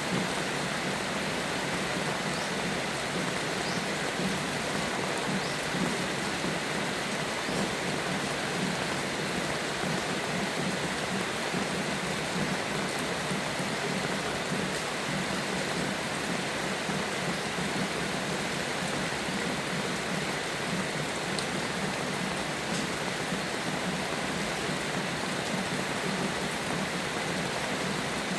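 Steady, even rainfall with no letup or thunder rumble, plus a few faint short high ticks scattered through it.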